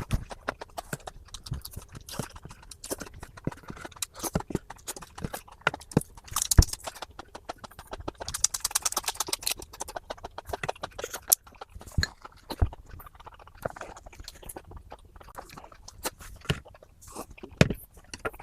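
Close-miked crunching and chewing of raw green vegetables: a dense, irregular run of crisp crunches and clicks, thickest about halfway through.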